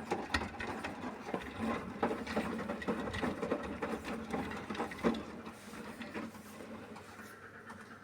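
Beko WMY81283LMB2 washing machine drum turning during the main wash, with sudsy wet laundry and water sloshing and patting against the drum in an irregular patter of soft knocks. The tumbling dies down near the end.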